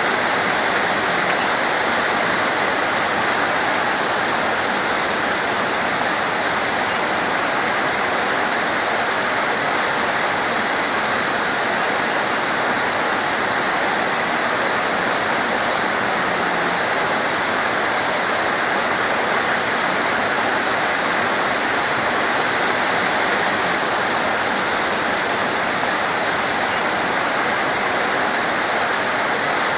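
Heavy rain falling as a steady, even hiss with no let-up, with one faint click about halfway through.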